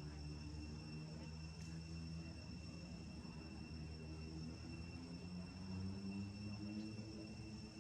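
Steady, unbroken high-pitched drone of insects, typical of crickets, over a faint low hum.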